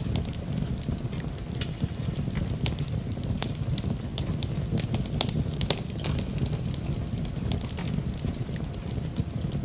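Wood fire burning in a fireplace: a steady low roar of flames with frequent sharp crackles and pops of burning wood.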